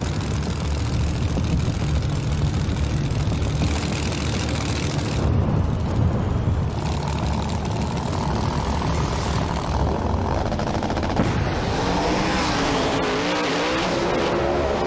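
Loud drag-race car engines running at the starting line, a dense rough rumble with sharp pops. The rumble eases near the end as wavering pitched sounds rise over it.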